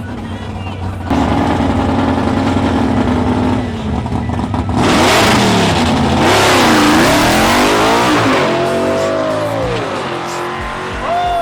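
Drag-racing vehicle engines at the strip: a steady idle at the line, then about five seconds in a loud launch down the track, with the engine pitch rising and falling several times before it eases off.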